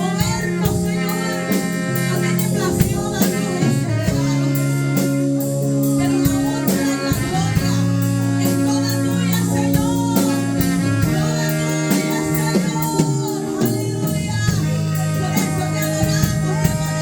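Live worship music: a band with sustained keyboard or guitar chords, drums keeping a steady beat, and voices singing.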